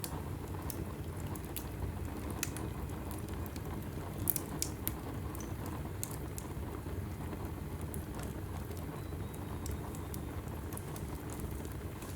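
Log fire burning in a fireplace: a low, steady rumble of flames with scattered sharp crackles and pops, a few louder pops about four to five seconds in.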